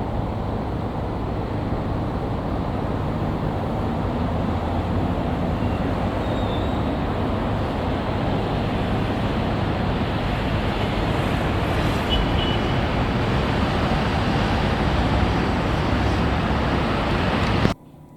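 Steady running noise of a moving tour coach: engine and road noise, with no change in pitch. It cuts off suddenly near the end.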